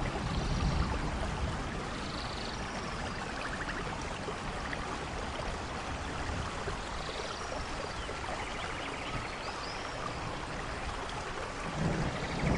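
Steady rain falling, with a low thunder rumble fading out early on and another starting to build near the end. A few faint high chirps sound over the rain.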